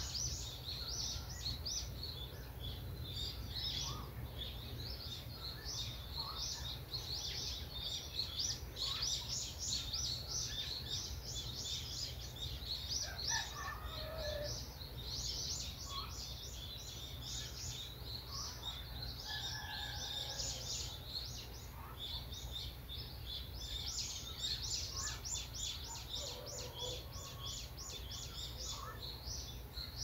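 Birds chirping in a dense chorus of rapid, high-pitched chirps, with a few lower calls now and then, over a steady low rumble.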